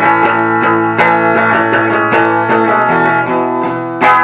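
Live band music led by guitars playing chords, with no singing.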